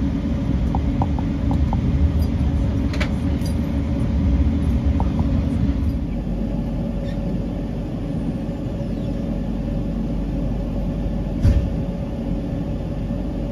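Passenger train coaches rumbling past on the tracks, then a diesel locomotive's engine running steadily after about six seconds. A single sharp thump comes near the end.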